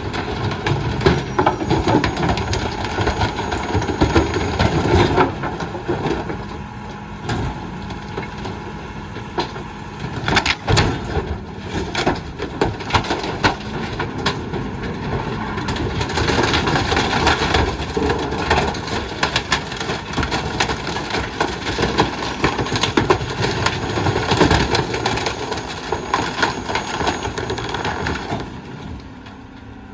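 McNeilus rear-loader garbage truck's packer crushing bulky trash, with repeated cracking and snapping of breaking material over the running diesel engine. The crunching stops about a second before the end.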